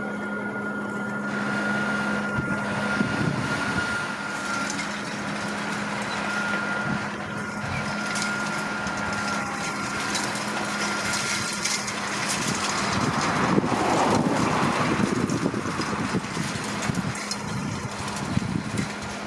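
JCB Fastrac 4220 tractor running steadily while pulling a Krone Swadro rotary rake through hay, with a thin high whine over the engine note that stops a little past halfway. The sound then grows louder for a couple of seconds.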